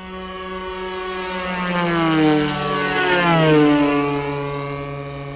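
Two gas-engined radio-control model warplanes flying past at full throttle. The engine notes grow louder, peak about two and three and a half seconds in, and drop in pitch as the planes go by, then fade.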